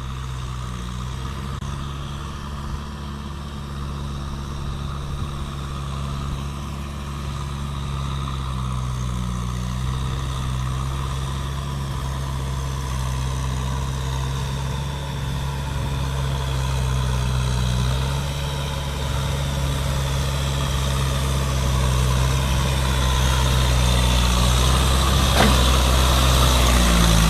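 Kubota M6040 tractor's diesel engine running steadily, growing slowly louder, with a single sharp click near the end.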